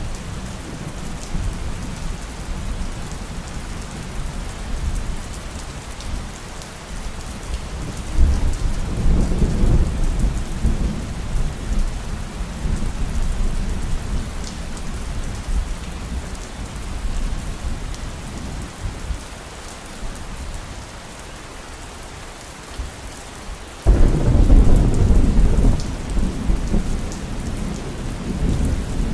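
Thunderstorm: steady heavy rain with rolling thunder. A rumble swells about eight seconds in and fades, and a sudden louder thunderclap breaks about 24 seconds in and rumbles on.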